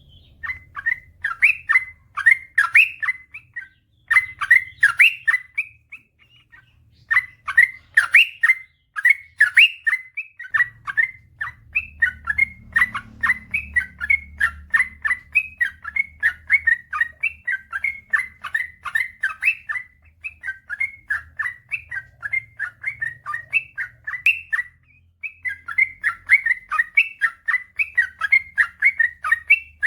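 Yellow-vented bulbul (trucukan) singing a long, rapid string of short chirping notes, several a second, in full 'gacor' song. The run breaks briefly about 6 seconds in and again near 25 seconds, then resumes.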